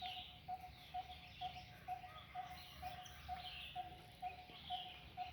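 A bird the locals call the engkuk gives a steady series of short, low, identical notes at one pitch, a little over two a second. Fainter, higher chirps of other birds are heard behind it.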